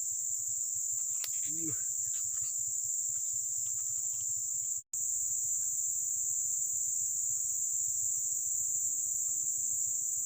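Steady high-pitched chorus of insects shrilling without pause, cut off for an instant about five seconds in.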